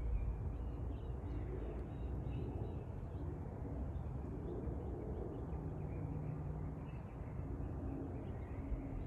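A steady low rumble with a few faint humming tones, under small birds chirping now and then.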